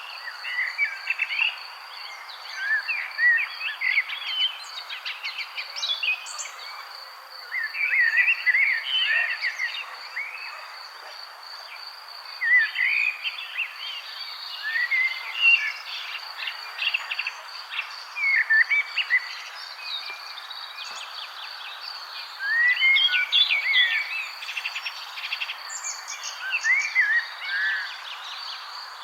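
Small songbirds chirping in bursts of quick, bright chirps every few seconds. A steady, high-pitched pulsing trill and a constant soft hiss run underneath.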